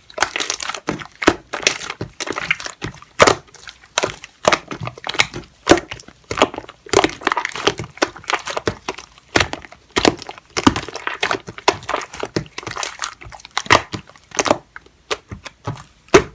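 Pink clear slime mixed with shaving foam being squeezed, folded and pressed by hand, making irregular sharp pops and sticky clicks, a few a second, with short crackles in between.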